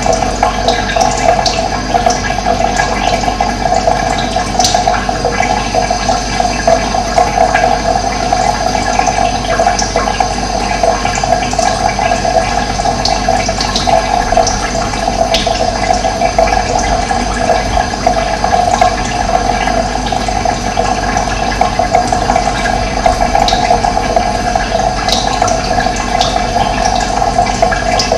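Running water, a steady continuous rush, with occasional short high bird chirps over it.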